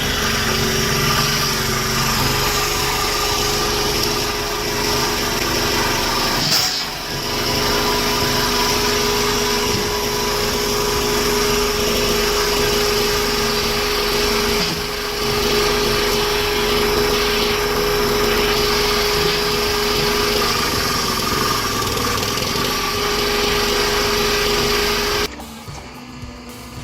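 Homemade log splitter's small engine running steadily with a steady whine. It dips briefly about six and a half seconds in and again about fifteen seconds in, then cuts off suddenly near the end, leaving a quieter background.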